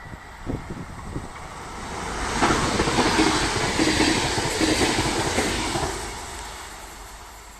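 A train passing by: its rushing noise and wheel clatter swell about two seconds in, stay loud for a few seconds, then fade away.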